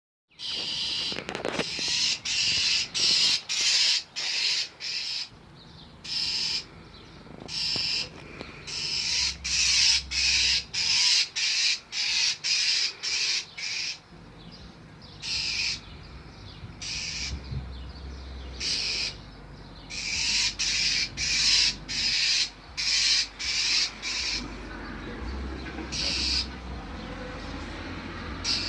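A bird giving short, harsh scolding calls over and over, in runs of about two a second broken by short pauses: alarm calls of a bird mobbing a cat.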